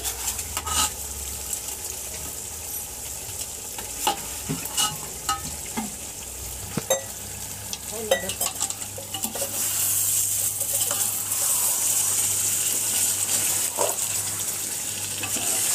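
A metal spoon clinks and scrapes against a metal pot while stirring chicken biryani masala, over a frying sizzle. The sizzle grows louder a little past halfway through.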